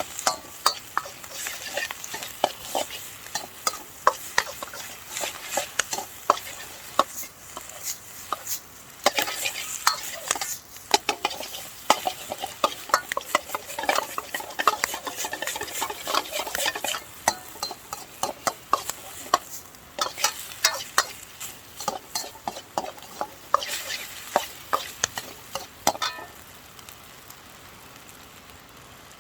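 Fried rice being stir-fried in a Chinese wok: a metal utensil repeatedly scrapes and clacks against the wok over a steady sizzle. The clacking stops about 26 seconds in, leaving a quieter sizzle.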